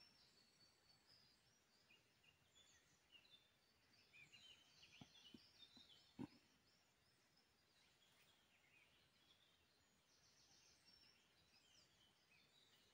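Near silence, with faint forest birdsong: scattered short high chirps and trills. A few soft knocks come around five to six seconds in.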